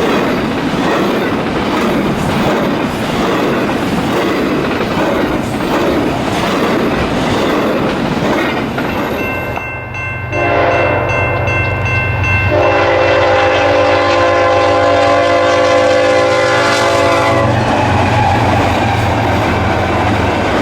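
A train rolling past with steady wheel clatter. About ten seconds in, the locomotive's air horn sounds a long chord for about seven seconds, its notes shifting partway through, while the train keeps running.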